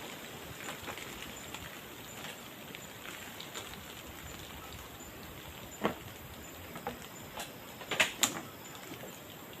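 Steady hiss of rain with a few sharp knocks and clicks in the second half, the loudest a close pair about eight seconds in.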